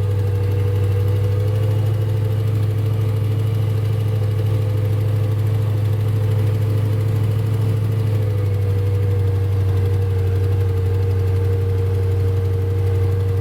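Suburban's engine running at a steady speed, a constant low drone with no revving.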